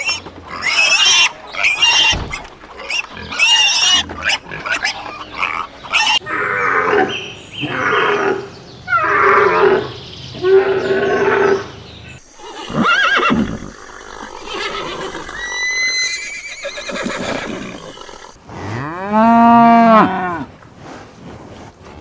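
A string of different animal calls follows one after another, cut together in short segments. Near the end comes a cow's long moo, rising and then falling in pitch.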